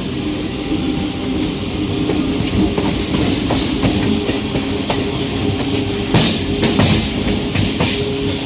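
MEMU electric train running along the track with a steady hum, its wheels clacking over rail joints, the clacks coming thicker in the second half.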